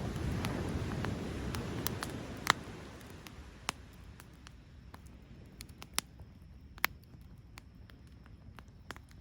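Wood fire crackling in a Picogrill 398 folding fire pit: scattered sharp single pops over a low rushing sound that fades during the first few seconds.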